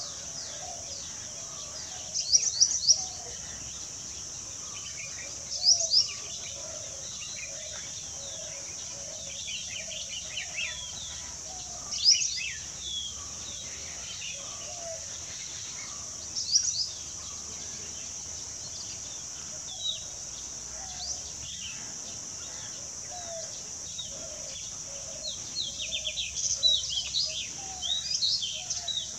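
White-spotted fantail calling in brief clusters of quick, high, sharp chirps every few seconds, busiest near the end, over a steady high-pitched hiss.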